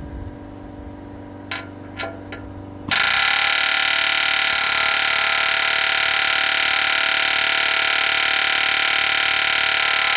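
A power tool working on a truck frame rivet: a loud, steady, buzzing tool sound that starts abruptly about three seconds in, after a few light knocks over a low background hum.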